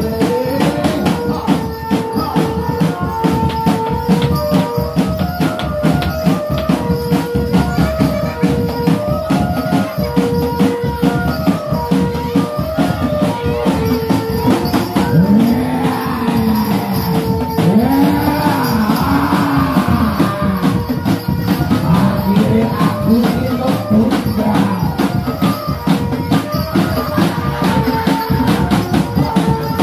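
Barongan accompaniment music: fast, dense percussion with jingling and a short repeating melodic figure of high notes. Several swooping rising-and-falling tones come in a little past the middle.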